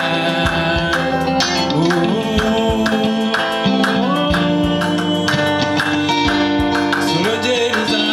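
Live band music with guitar and drums keeping a steady beat, in a break between sung lines.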